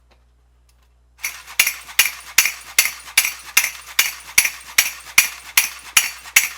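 Jolly Chimp wind-up monkey toy clapping its brass cymbals together, starting a bit over a second in: a steady run of sharp metallic clashes, about two and a half a second.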